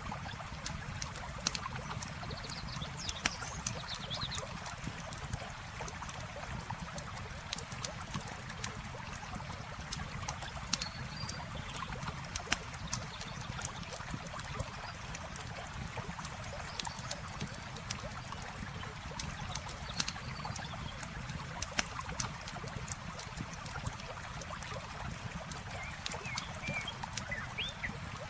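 Campfire crackling, with frequent sharp pops and snaps, over the steady rush of flowing water. A few faint high chirps come through about three seconds in and again near the end.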